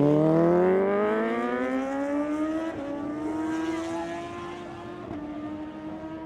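Superbike engine accelerating hard down a drag strip, its pitch climbing through the gears with two quick upshifts, growing fainter as the bike pulls away.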